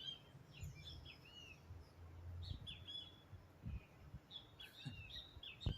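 Birds chirping in three clusters of short, high chirps and curving calls, with a few soft low thumps.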